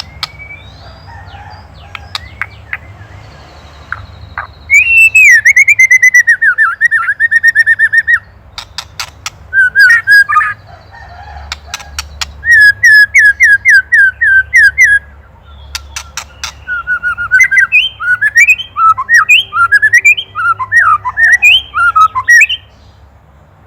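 White-rumped shama singing loud bursts of fast, repeated whistled notes, broken about nine seconds in by a run of sharp clicks: the ketrek rattle this bird gives when agitated by a predator.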